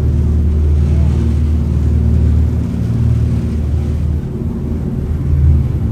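Jet boat's turbo-diesel engines running with a deep rumble, easing off a few seconds in and building again near the end.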